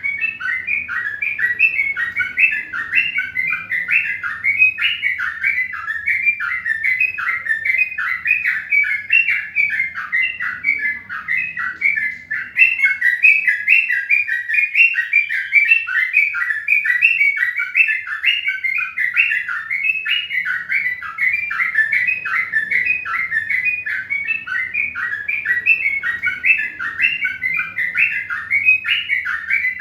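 Birds chirping rapidly and without a break, several short chirps a second at an even pace.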